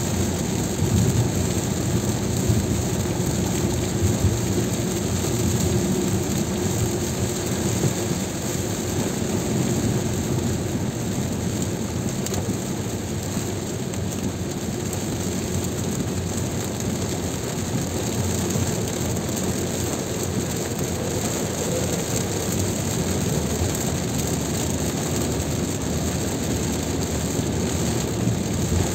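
A car driving in heavy rain: steady tyre and road noise on the wet road, with rain falling on the car.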